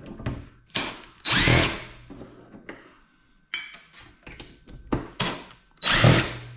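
Corded electric drill-driver run in several short bursts, spinning up and back down, driving screws out of a computer case. The longest and loudest bursts come about a second and a half in and near the end.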